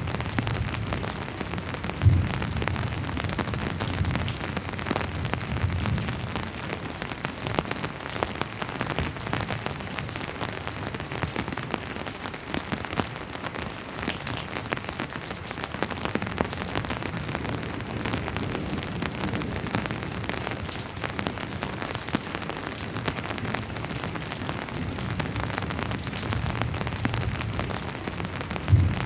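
Steady rain falling, with many individual drops ticking on a hard surface, and low rumbling that swells and fades. Two brief, sharp low thumps stand out: one about two seconds in, one near the end.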